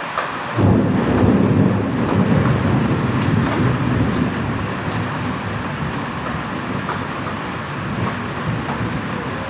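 Thunder rumbling over steady heavy rain: a deep rumble breaks in suddenly about half a second in, is loudest for the next couple of seconds, then slowly dies away while still rolling on to the end.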